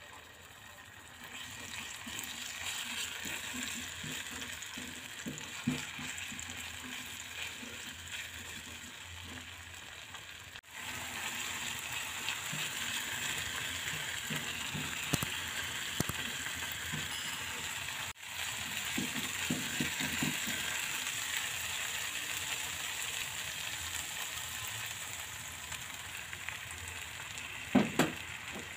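Ground spice paste of shallots, garlic, chili and kencur sizzling in oil in a nonstick frying pan on low heat, with a spatula scraping and knocking against the pan as it is stirred. Two sharp knocks near the end are the loudest sounds.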